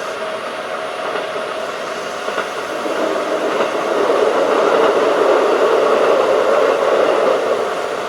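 Keikyu 1500 series field-chopper electric train running at speed, heard from aboard: a steady rumble of wheels on rail and traction gear. It grows louder from about three seconds in and eases again near the end.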